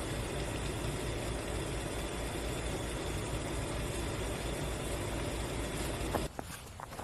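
Steady engine-like rumble with a low, even pulsing throb, cutting off about six seconds in.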